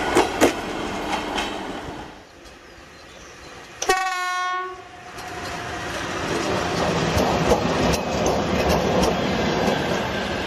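A few sharp clicks, then a train horn sounds once about four seconds in for about a second, its pitch sagging slightly at the end. After it comes the running noise of an approaching train, growing louder and then holding steady, with scattered clatter.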